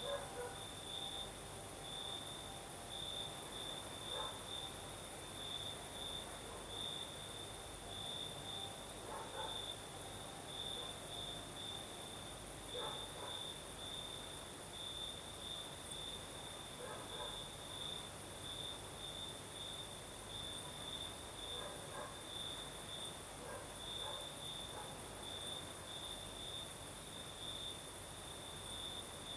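Crickets singing at night: one steady, pulsing trill on a single high note, with a higher continuous insect hiss above it. A few faint short sounds come every few seconds underneath.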